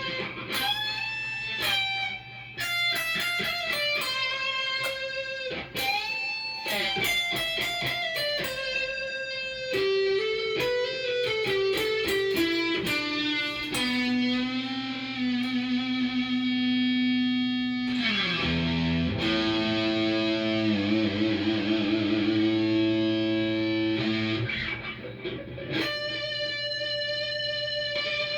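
Cort S series electric guitar played through a Fender amp: single-note lead lines with bends and vibrato, then a run falling to a long low held note. About two-thirds through, a note slides down, followed by sustained notes with wide vibrato.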